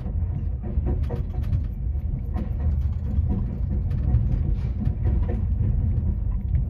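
Steady low rumble of a moving vehicle, with faint clicks and rattles running through it.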